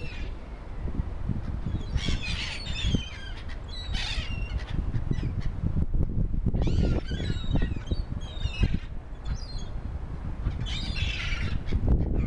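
Birds calling in several short bouts of squawking calls, over a steady low rumble.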